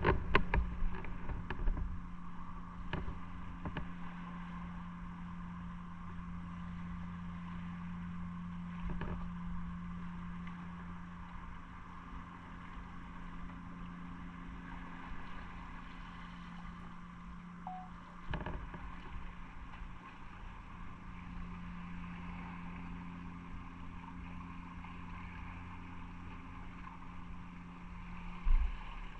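Motorcycle engine running at a steady pitch under road and wind noise, with a few short knocks and a low thump near the end.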